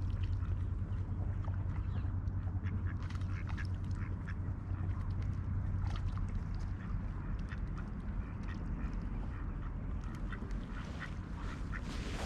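Ducks quacking, short scattered calls through the whole stretch, with a steady low hum underneath.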